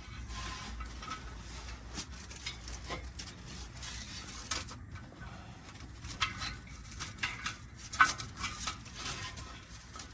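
Scattered metallic clinks and knocks as a stainless steel exhaust pipe section and its hardware are handled and fitted under a pickup truck, with one sharper knock about eight seconds in.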